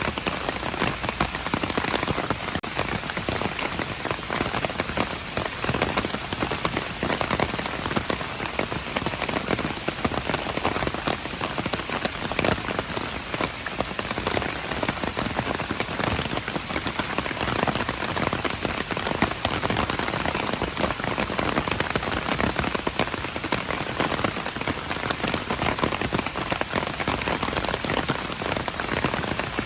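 Steady rain falling, an even hiss made of countless fine drop impacts.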